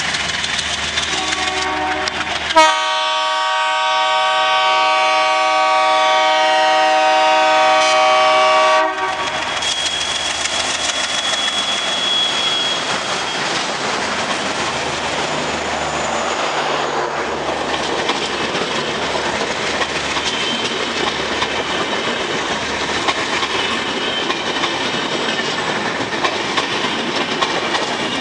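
Alco diesel locomotive's air horn blaring for about six seconds as the train passes at speed, cutting off suddenly. Then the express's coaches rush past with steady wheel noise and clattering over rail joints.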